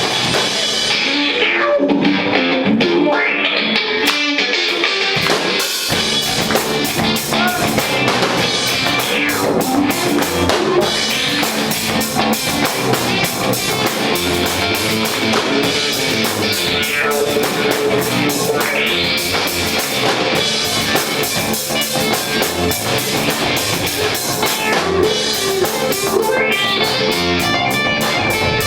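Live garage rock band playing: electric guitar and drum kit together. A slow whooshing sweep passes through the sound about every eight seconds.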